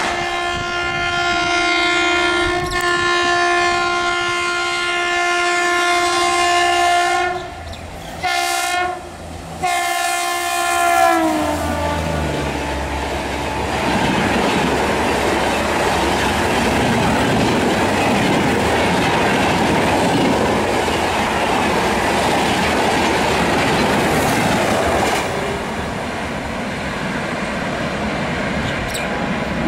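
A train's air horn sounds one long blast, then a few short blasts. The last blast drops in pitch as the train draws level and goes by. It is followed by the steady rush and wheel clatter of the train running past, which eases off near the end.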